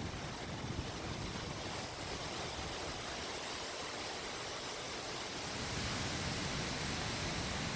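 Steady rushing noise of wind outdoors, growing a little louder about three-quarters of the way through.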